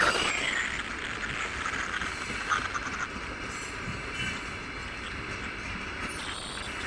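Fully loaded freight wagons rolling past on a climb: a steady rumble with wheel-on-rail noise.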